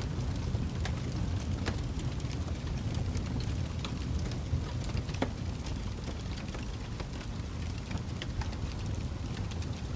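Wood fire crackling in a fireplace: a steady low rumble from the flames with scattered sharp pops and snaps.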